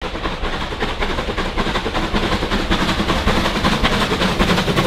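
A train running along the track: a steady, loud rumble with fast, regular clatter.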